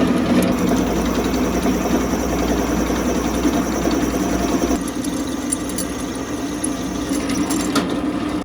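An electric power tool running steadily under load, a constant motor hum with dense grinding noise. It eases slightly about five seconds in and cuts off abruptly at the end.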